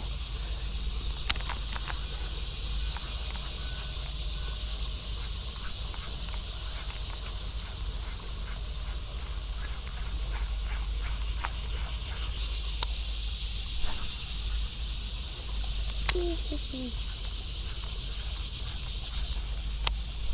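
Steady chirring of an insect chorus, crickets or similar, with a few sharp clicks and ticks scattered through it and a brief warbling call about two-thirds of the way in.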